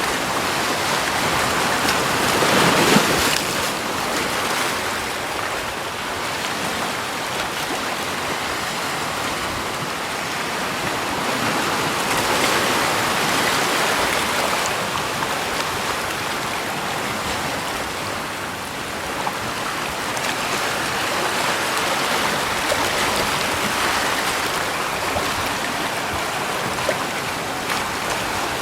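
Rushing water: a steady, noisy wash with slow swells, loudest in a brief surge about three seconds in.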